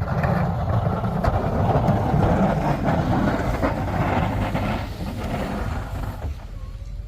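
Plow truck driving while plowing snow: a steady, noisy rumble of engine and blade pushing snow that eases off about five to six seconds in.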